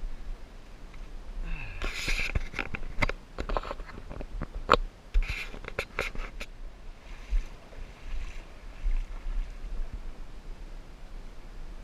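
Creek water splashing and rushing in uneven surges, with scattered sharp clicks and knocks and a low rumble underneath.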